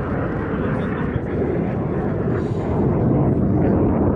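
Military aircraft flying past overhead, a steady engine noise that grows louder about three seconds in.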